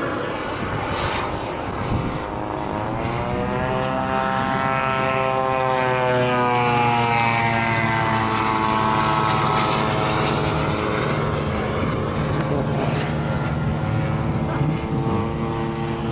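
Propeller-driven RC model airplane engine in flight: its note rises in pitch for a few seconds, falls again as it passes, then holds steady.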